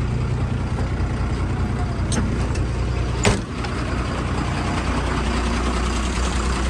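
Truck engine idling with a steady low drone over road noise, with a sharp clack a little over three seconds in.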